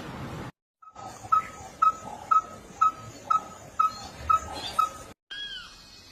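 Bird calls: a run of about nine short, identical notes repeated about twice a second. After a cut, a different call of rising-and-falling whistled notes begins near the end.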